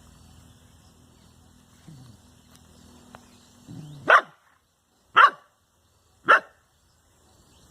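Dog barking three times, about a second apart, in the second half, each bark short and sharp.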